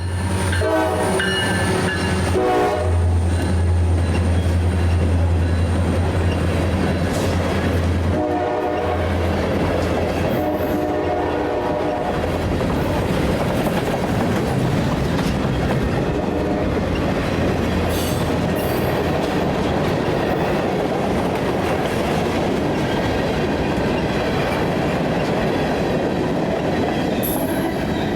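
CSX freight train passing close by. The diesel locomotive sounds its horn in blasts over the first few seconds and again around nine to twelve seconds in, over the steady rumble of its engine. After that the railcars roll past with a steady clickety-clack of wheels on the rails.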